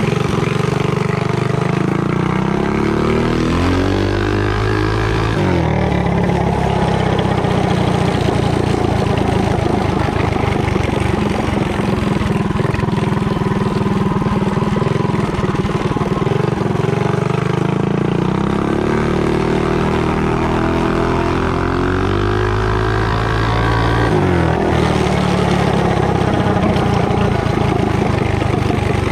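Mini bike's small gas engine accelerating through a torque converter with the yellow spring in the driven pulley. The engine note climbs twice, with a loud, rough stretch at high revs between.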